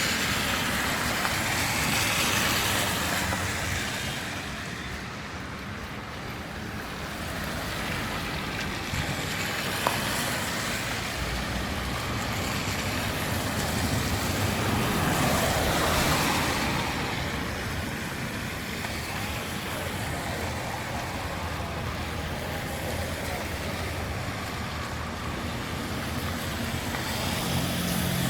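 Street traffic: vehicles passing on the road, the noise swelling and fading twice, with one short click about ten seconds in and a low engine hum coming up near the end.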